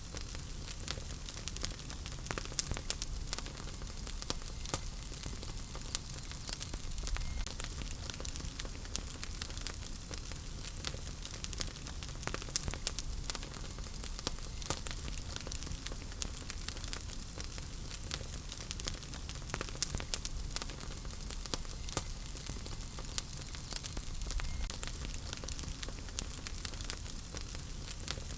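Wood fire crackling in a fireplace: irregular sharp pops and snaps over a steady hiss and low rumble of the flames.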